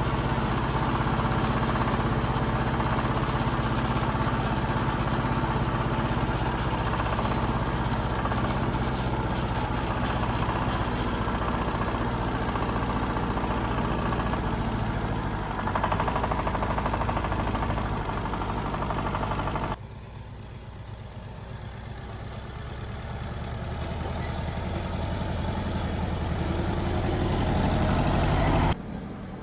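Diesel engine of heavy earthmoving machinery running steadily. About twenty seconds in the sound cuts abruptly to a quieter engine that grows steadily louder, then cuts again near the end.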